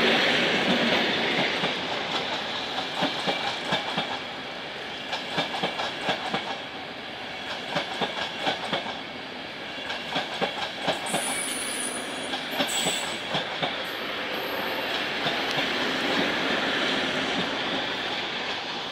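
Passenger coaches of a loco-hauled train rolling past close by, their wheels clacking over the rail joints in quick clusters, with a couple of brief high wheel squeals about halfway. The sound fades as the end of the train moves away.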